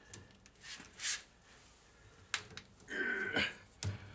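Light handling noises: a brief rustle, then a few sharp clicks as wire connectors are worked onto the vend motor's terminals.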